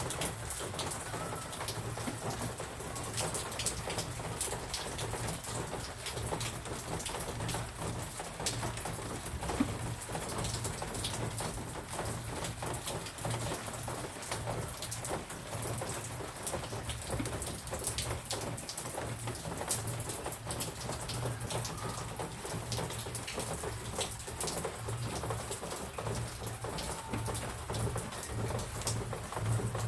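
Steady rain falling and pattering on surfaces, with many separate drop ticks.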